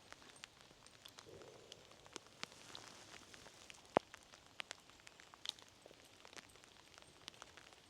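Light rain: raindrops tapping irregularly near the microphone, several ticks a second, with one louder drop about four seconds in.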